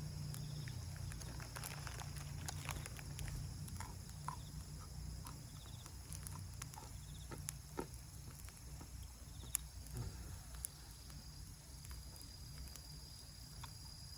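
Wood campfire crackling, with irregular sharp snaps and pops, a few louder ones about eight to ten seconds in, over a steady drone of insects and a low rumble.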